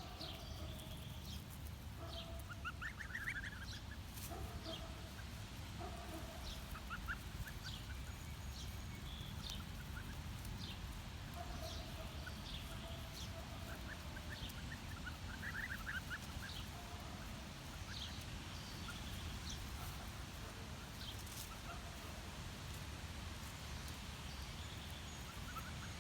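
A flock of two-week-old Pomeranian goslings peeping as they graze, giving many short, high, scattered peeps with a few lower calls among them.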